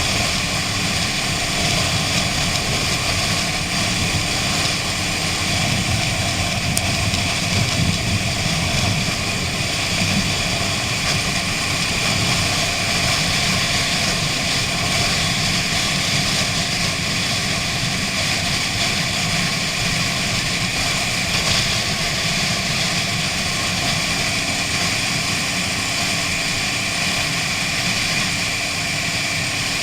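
Honda CB 500 parallel-twin motorcycle running steadily at cruising speed while ridden, its engine mixed with steady wind rush.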